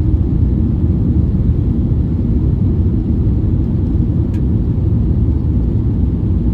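Steady low rumble of an Airbus A321neo heard from inside the passenger cabin, with one faint click about four seconds in.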